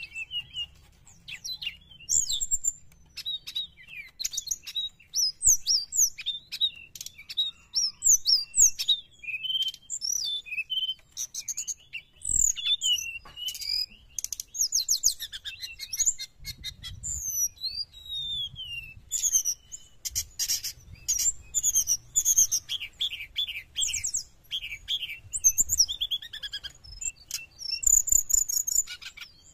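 Brown-chested jungle flycatcher singing: a fast, varied stream of high whistled phrases, trills and quick up-and-down glides, broken by short pauses.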